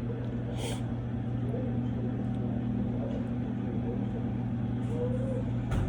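Restaurant dining-room noise: a steady low hum with faint background chatter, a brief hiss about half a second in, and a sharp click near the end.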